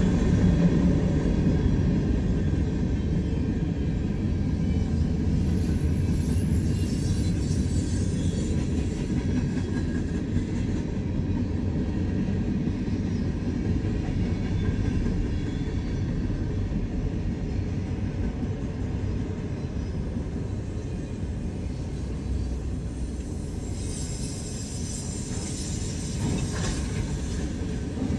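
Freight cars of a manifest train rolling past: a steady rumble of steel wheels on rail. A faint high wheel squeal comes in twice, about a quarter of the way in and again near the end.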